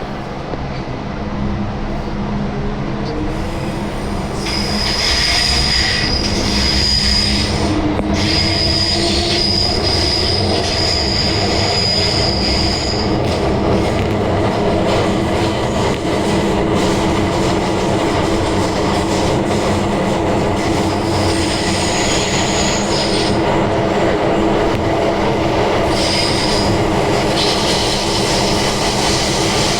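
MTR M-train running: traction motors whine, the pitch rising as the train picks up speed about four seconds in, over a steady rumble of wheels on rail. A high wheel squeal comes and goes.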